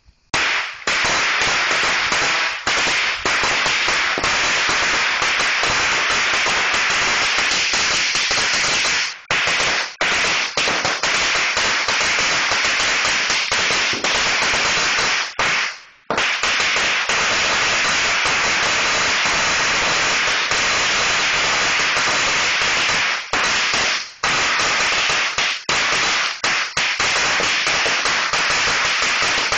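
A 4,000-count string of Black Cat firecrackers going off as a rapid, unbroken crackle of bangs. It starts abruptly and almost stops for a moment about halfway through, then picks up again, with a few brief gaps near the end.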